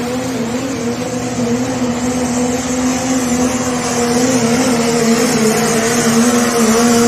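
Engine of a pulling vehicle held at high, steady revs under load during a pull. The pitch wavers a little and it grows somewhat louder about halfway through.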